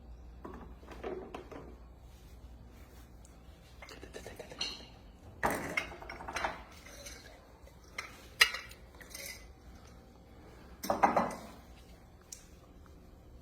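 Kitchen dishes and utensils clattering: a handful of separate knocks and clinks, the sharpest about two-thirds of the way in.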